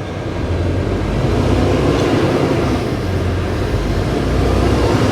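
Diesel engine of a semi-truck pulling a trailer, running under load and getting louder as the rig gathers speed.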